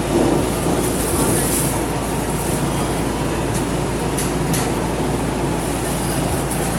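Interior noise of an R211 subway car: a steady rumble with a faint constant whine and a few sharp clicks around the middle.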